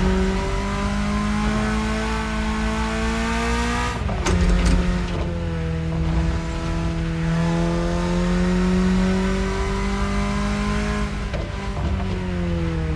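BMW E30's engine pulling under way. The revs climb slowly through one gear, drop sharply at a gear change about four seconds in, climb slowly again through the next gear, then fall away near the end.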